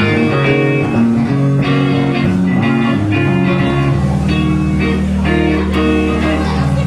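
Live rock band playing, led by electric guitar over a steady bass guitar.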